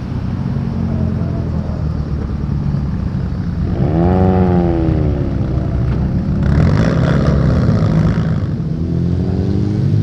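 Modified car engines rumbling at low speed. About four seconds in, one engine revs up and falls back, and a louder exhaust rush follows about two seconds later as a car pulls away.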